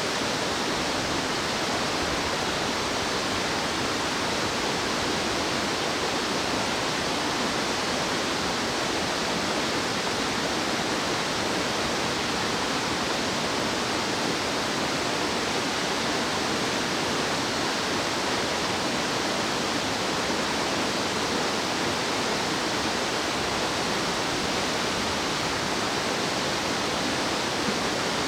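A mountain stream rushing steadily over rocks, an even wash of water noise.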